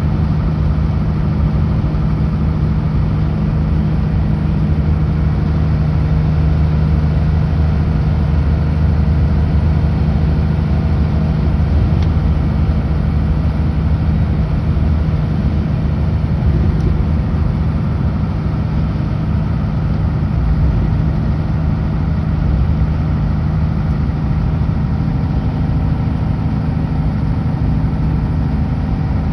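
Kenworth W900L semi truck's diesel engine running steadily at highway speed, with road noise under it.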